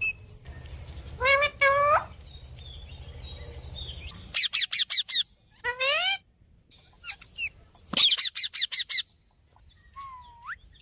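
Pet parrot calling: quick runs of short, rising chirps and squawks, with a single rising whistle near the end.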